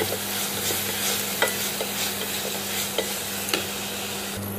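Chopped snake gourd sautéing in ghee in a metal pressure cooker, sizzling steadily while a wooden spatula stirs it, with a few short knocks and scrapes of the spatula against the pan.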